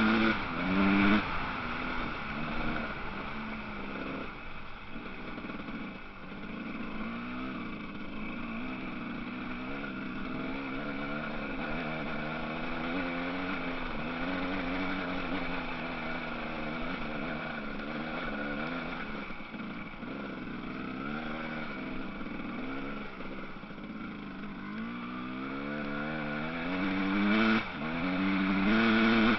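Motocross bike engines revving, their pitch rising and falling with the throttle; loudest in the first second and again in the last few seconds as bikes pass close, with more distant engines in between.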